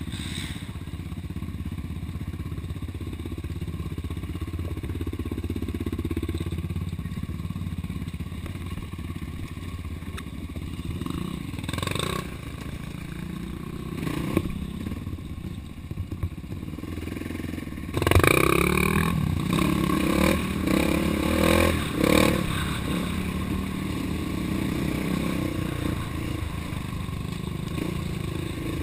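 Off-road vehicle engine running through a trail ride, with knocks and a louder stretch of clattering about two-thirds of the way in as the machine goes over rough ground.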